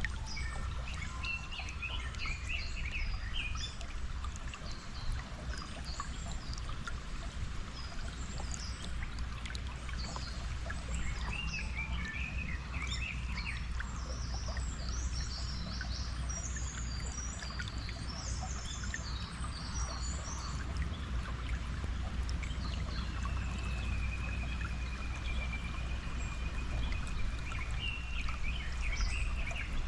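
Flowing stream water with a steady low rumble, and birds singing over it in chirps and whistles throughout, including one long whistled call about two-thirds of the way through.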